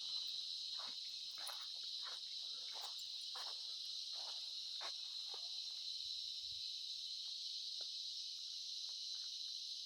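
Cicadas buzzing in a steady, high-pitched chorus, with a few faint short ticks scattered through the first half.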